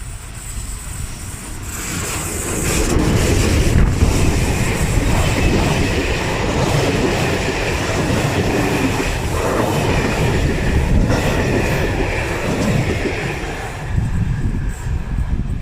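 A train passing close by on the track: the rumble of wheels on rails builds over the first couple of seconds, holds steady with occasional knocks, and stops abruptly at the end.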